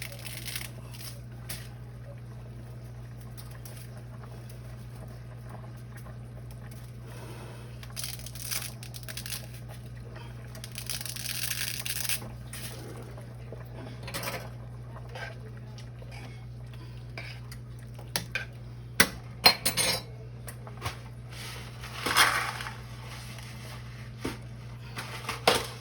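Kitchen pot and utensils clinking and clattering now and then as spaghetti goes into a pot of soup and is stirred, with the sharpest clinks in a cluster about three quarters of the way through. A steady low hum runs under it.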